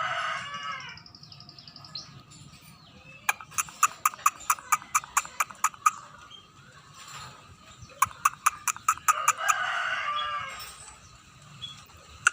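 Scaly-breasted munia singing: a thin high whistle and two runs of sharp clicking notes at about five a second. A rooster crows in the background at the start and again near the end.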